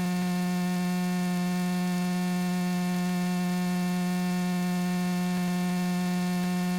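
Steady electrical hum in the aircraft's intercom audio, one unchanging low tone with a ladder of overtones above it.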